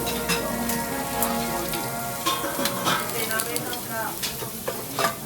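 Meat sizzling on a jingisukan grill pan: a steady hiss with many small crackles and pops. Faint chatter from other diners is heard behind it.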